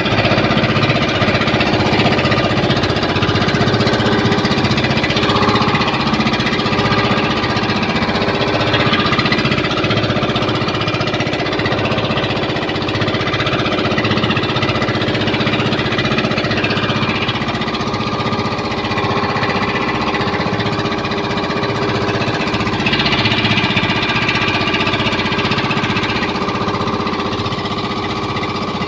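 Small engine on a fishing boat running steadily at constant speed with a rapid, even pulsing beat.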